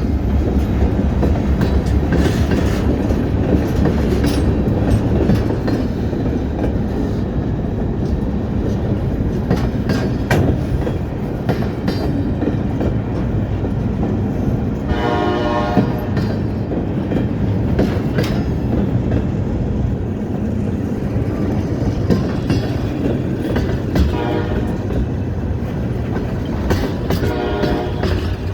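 Train running with a steady rumble and scattered wheel clicks on the rails. The locomotive horn sounds three times: a strong blast about halfway through, a fainter one a few seconds later, and another near the end.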